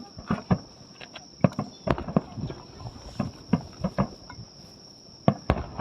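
Steady high-pitched insect trill, with many irregular sharp pops and knocks over it.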